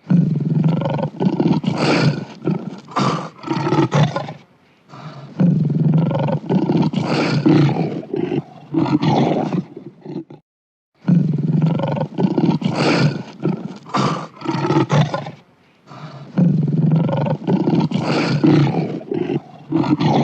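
Lion roaring in a run of long, rough roars. The same roaring sequence plays twice, with a short silent break about halfway.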